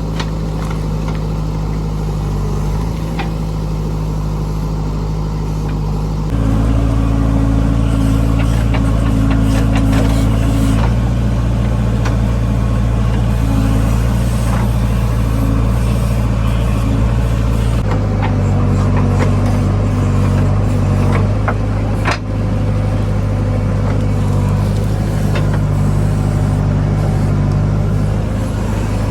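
Diesel engine of a JCB 3DX backhoe loader running under load, rising to higher revs about six seconds in and settling back about eighteen seconds in, with a few sharp metal knocks a few seconds later.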